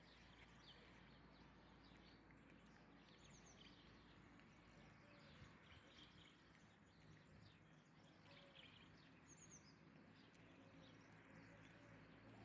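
Near silence: faint outdoor background with small birds chirping now and then over a low steady hum.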